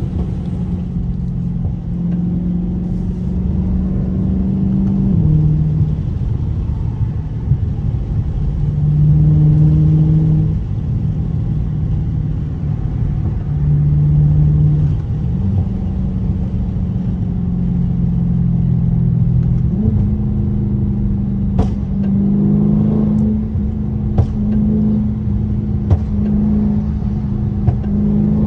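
Dodge Charger 392's 6.4-litre HEMI V8 running under way, its engine note dropping and rising in steps with throttle and gear changes. In the second half several sharp pops crack from the exhaust, from its pop tune.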